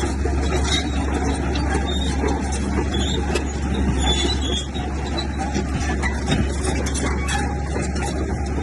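Komatsu bulldozer's diesel engine running steadily under load, with a constant low drone.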